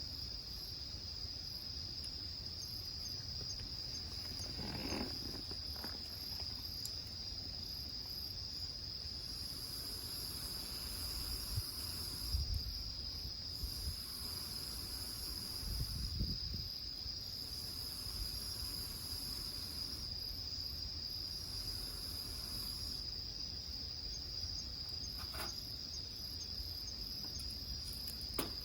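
Crickets calling: a steady, unbroken high trill. A second, higher-pitched insect joins in about four bouts of roughly two seconds each through the middle.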